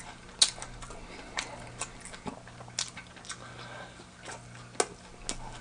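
Chewing: scattered short crunches and mouth clicks, roughly one every half second, over a faint steady low hum.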